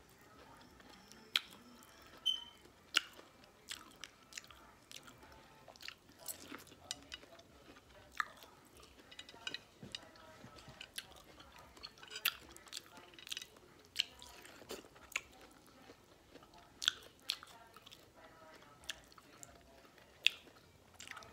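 A person chewing and biting into corn on the cob, with irregular sharp mouth clicks scattered throughout.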